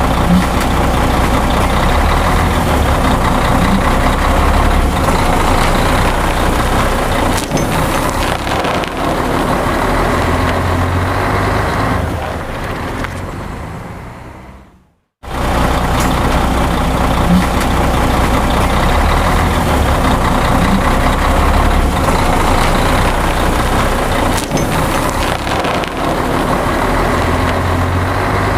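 Truck engine sound running steadily, a recording of about 14 seconds that fades out, goes silent briefly about halfway through, then plays again from the start.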